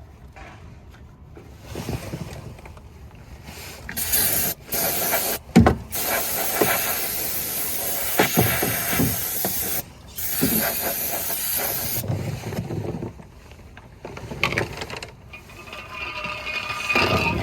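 Hissing spray in four bursts, the longest about four seconds, with a sharp knock during the second burst. Fainter knocks and clatter follow near the end.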